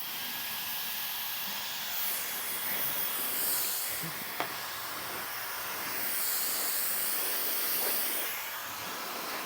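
High-speed brushless-motor hair dryer blowing air: a steady rushing hiss with a faint high motor whine, swelling and easing as the dryer is moved about. A single small click about four and a half seconds in.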